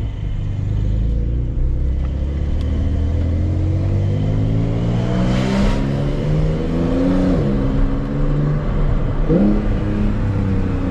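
Porsche 911 Carrera 4 GTS's twin-turbo flat-six accelerating under load, its pitch climbing for several seconds. The pitch drops and picks up again at gear changes about seven and nine seconds in.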